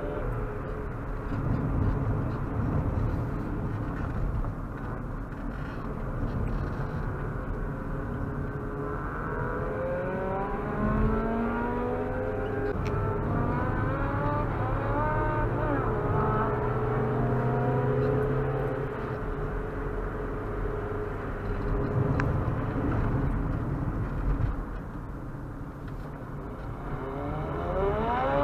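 Opel Astra 1.4's engine heard from inside the cabin while driving a race circuit, its pitch climbing under acceleration several times, mostly in the middle and again near the end, over a steady low rumble.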